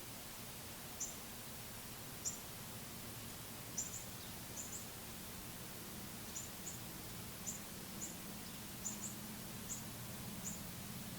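A songbird giving short, high chip notes, repeated about one to two a second with some in quick pairs, over a faint steady low hum.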